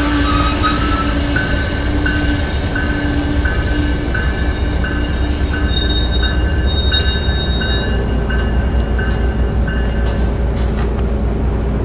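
MBTA commuter train of bilevel coaches rolling slowly past over a steady low rumble, its wheels squealing in thin high tones that pulse on and off about one and a half times a second. The squeal fades out near the end.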